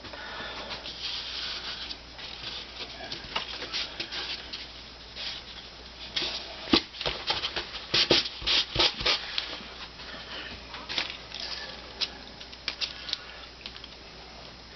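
Thin, dry veneer sheets and gummed paper veneer tape being handled and pressed down along a split: irregular crackling and light ticks, busiest about six to nine seconds in.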